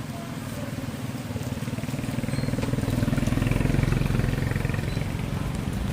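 A small engine running, growing louder through the middle and easing off a little near the end.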